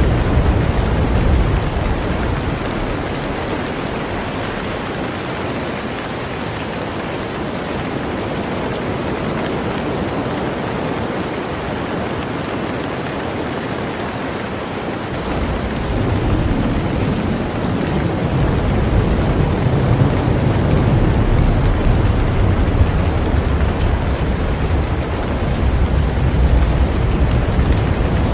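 Heavy rain falling steadily on a boat, an even hiss. A low rumble underneath fades out in the first couple of seconds and comes back about halfway through.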